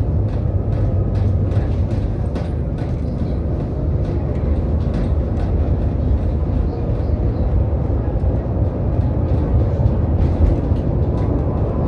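Tram running along the track: a steady low rumble with frequent short clicks and rattles.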